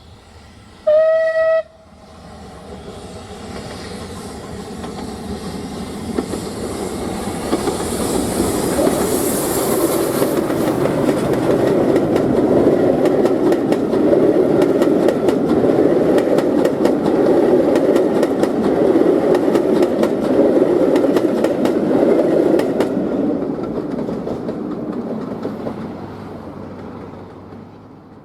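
A locomotive whistle sounds one short blast about a second in. A train then approaches and passes close by. Its noise swells and stays loud, with rapid clicking of wheels over the rail joints, then fades away near the end.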